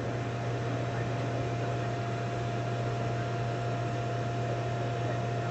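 Steady hum of running HVAC equipment: a low drone under an even rushing noise, with a thin, steady high tone.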